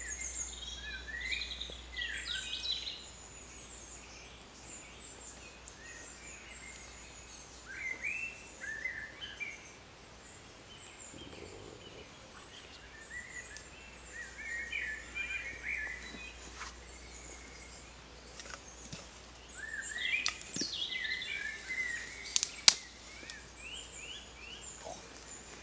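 Woodland birds singing, with many short chirps and trills from several birds scattered throughout. A single sharp click near the end is the loudest sound.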